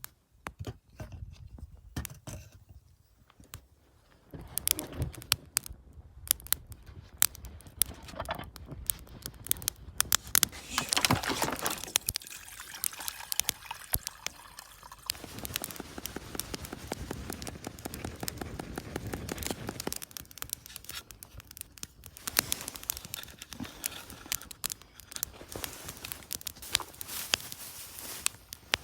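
Camp cooking preparation: a string of small clicks, knocks and scrapes from handling utensils, containers and food packaging, with stretches of liquid pouring or trickling.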